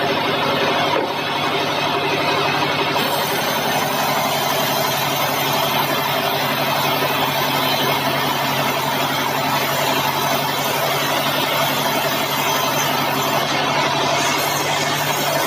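Bandsaw mill running steadily: a constant engine drone under a loud hiss from the saw, whose highest part grows brighter about three seconds in.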